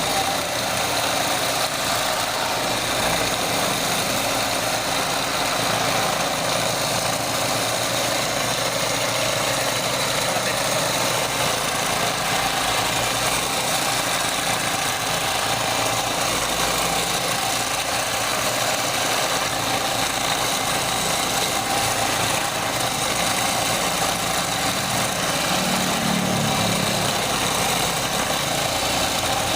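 Steady running of the electric motor of a homemade drill press converted from a table saw, an even machine hum and whir.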